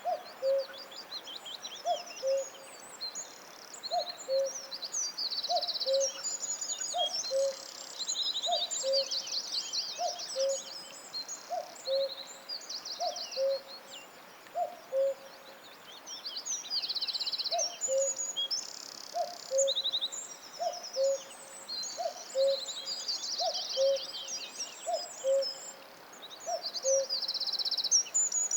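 Forest birdsong: several songbirds sing rapid trills and chirps together, and beneath them a low, two-note call, the higher note first, repeats steadily with a short break about midway.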